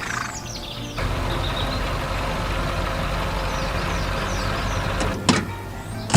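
A heavy farm machine's engine running steadily, with two sharp clacks near the end.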